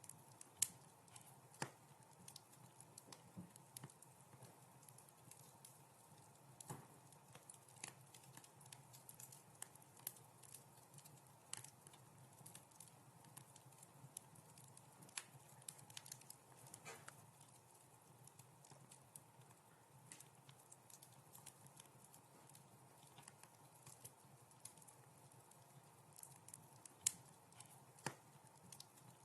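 Wood fire crackling: irregular sharp pops and ticks over a faint low rumble, with the loudest pops about half a second in and near the end.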